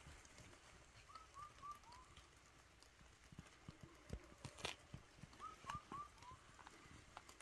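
A bird calling in the rainy night with two runs of four short whistled notes, each run stepping slightly lower. Scattered raindrop drips and taps sound between the runs.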